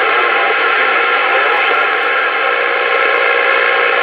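CB radio receiver static between transmissions: a steady hiss with several faint, steady whistling tones through it.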